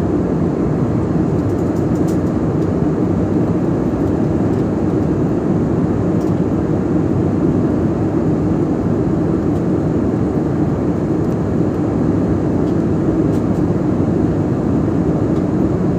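Steady cabin noise of a jet airliner in flight, a low, even rumble of engines and airflow heard inside the passenger cabin as the aircraft begins its descent.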